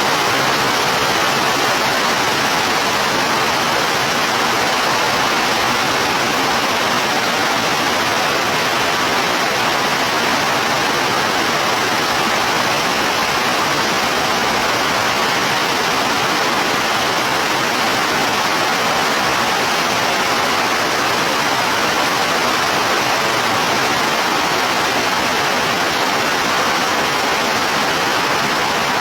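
Heavy tropical downpour: a dense, steady hiss of rain.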